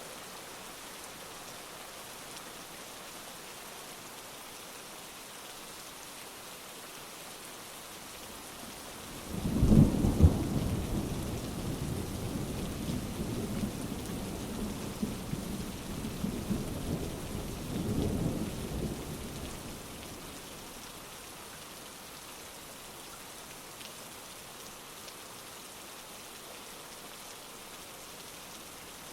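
Steady heavy rain hissing, with a thunderclap breaking in about a third of the way through. The thunder rolls on for about ten seconds, swells once more, then dies away under the rain.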